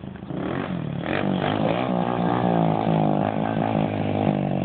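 Small pit bike engine revving, louder from about a second in, its pitch rising and falling with the throttle.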